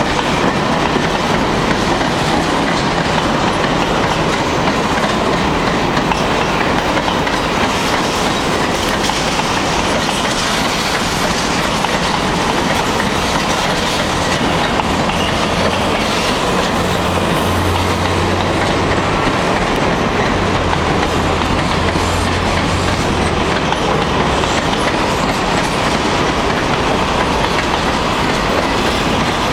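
CN freight train cars, covered hoppers among them, rolling past at close range: a steady loud rumble of steel wheels clattering over the rail joints. A low hum joins in for several seconds past the middle.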